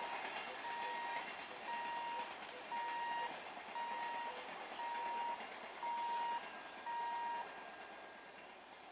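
An electronic beeper sounding about once a second, around eight steady beeps that stop near the end, over the fading rumble of a passing train.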